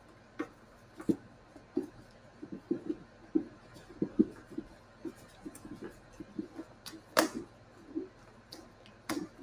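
Hands applying and tying a tourniquet on an arm: irregular soft taps and handling noises, with a sharper click about seven seconds in and another near the end.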